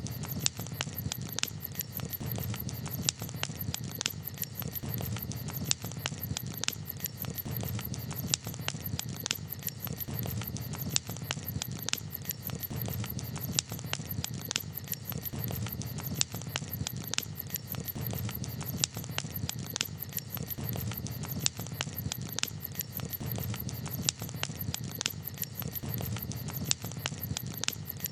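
Campfire crackling: frequent, irregular sharp pops and snaps over a soft, steady low rumble.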